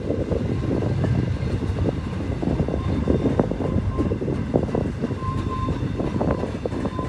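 Intermodal freight cars rolling past: a steady rumble of steel wheels on rail with frequent clicks and knocks, and a few short, faint high-pitched squeals.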